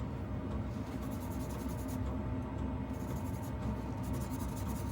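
Lathe running steadily, with wet sandpaper rubbing against a spinning acrylic pen blank, a constant scratchy sound over the motor's hum.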